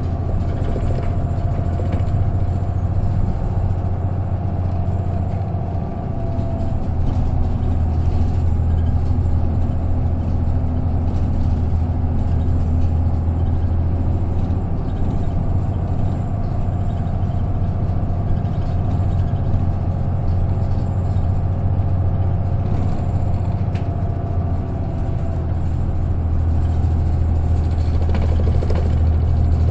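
Isuzu KK-LR233J1 non-step city bus diesel engine running steadily, heard from inside the passenger cabin as a strong low drone with a faint higher whine above it. The sound dips slightly about six seconds in and swells a little near the end.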